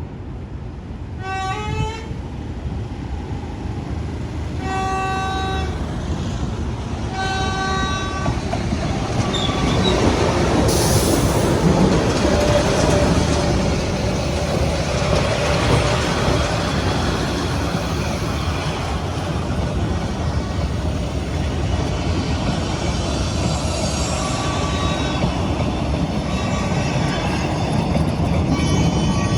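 D13E diesel locomotive sounding its horn in three blasts as it approaches. The train's engine rumble and wheel noise then grow loud as it rolls into the station. More short horn blasts come near the end.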